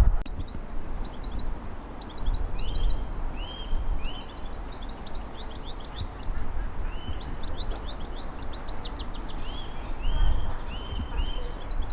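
Small songbirds singing: repeated short up-slurred chirps and quick trills, over the low rumble of gusting wind on the microphone.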